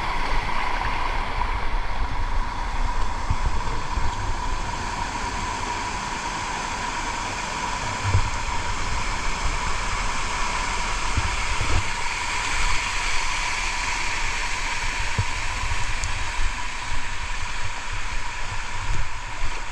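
Waterfall rushing steadily, a continuous even roar of falling water, with a few brief low thumps on the microphone.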